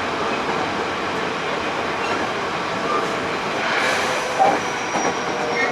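Hankyu 8000 series electric train running along the line, heard inside the passenger car: a steady rumble of wheels on rail with a steady mid-pitched tone. A brief knock stands out about four and a half seconds in.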